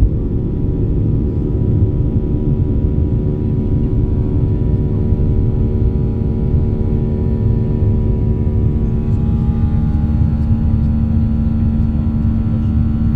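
Airliner engines during takeoff: a loud, steady rumble with a steady hum, and a few higher tones joining about eight seconds in.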